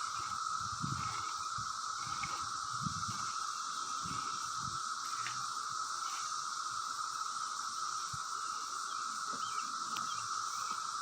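Periodical (17-year) cicadas singing in a steady, unbroken chorus drone. Some low thumps come in the first few seconds.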